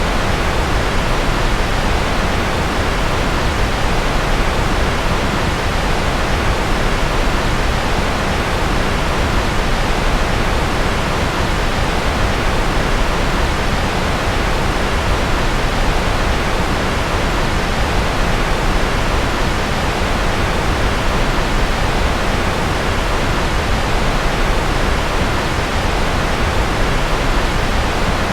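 Steady white-noise track for sleep: an even, unbroken rush that does not change, with most of its weight in the low and middle range and little at the very top.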